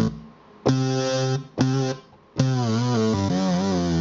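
Omnisphere software-synthesizer monophonic lead patch played on a keyboard: two short notes, then a long held note about halfway through whose pitch wavers with vibrato.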